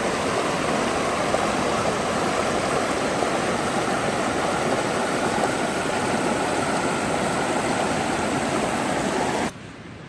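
Creek water rushing steadily over rocks. The rush cuts off suddenly about nine and a half seconds in, leaving only a faint hiss.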